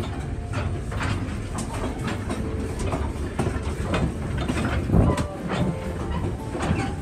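Passenger train rolling along the track: a steady low rumble of wheels on rail with a run of clicks and knocks from the rail joints, one louder knock about five seconds in.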